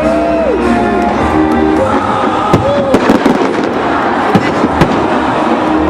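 Fireworks going off over loud music. Sharp bangs and crackles come thicker from about halfway in.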